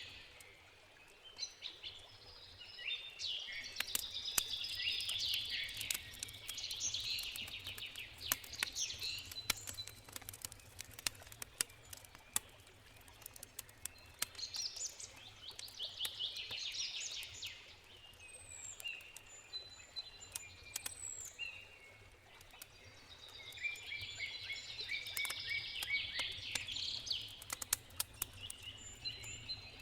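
Wood campfire crackling with frequent sharp pops, while songbirds sing in repeated phrases of a few seconds each. A faint, steady river rush sits underneath.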